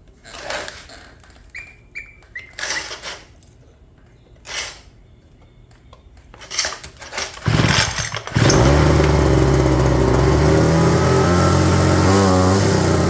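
Homelite handheld leaf blower's two-stroke engine being pull-started: several short pulls of the starter cord, then about seven seconds in it splutters, catches and runs steadily, the speed wavering a little near the end. It is running on a new carburetor, spark plug and fuel lines.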